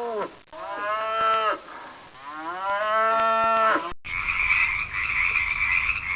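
Three long, drawn-out animal calls, each rising and then falling in pitch. About four seconds in they cut off abruptly and give way to a steady, high-pitched calling chorus.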